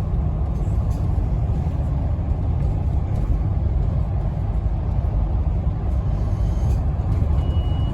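Steady low rumble of a Scania N270UD OmniCity double-decker bus heard from inside the cabin: its five-cylinder diesel running, with road noise. A short faint beep sounds near the end.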